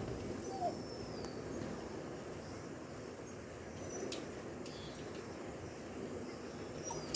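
Faint outdoor background noise with a few short, high chirps, like distant birds, and a couple of faint clicks.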